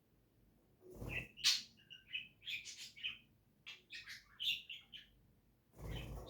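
A pet cage bird chirping and chattering in quick, short bursts of high notes that start about a second in. A low dull thump comes at the first chirp, and another near the end.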